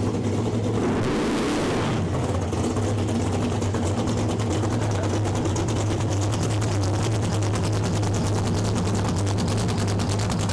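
An engine idling steadily at close range, with a brief hiss about a second in.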